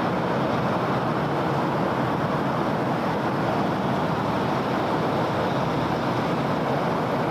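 Steady city road traffic: a continuous wash of tyre and engine noise from many vehicles, with no single car, horn or event standing out.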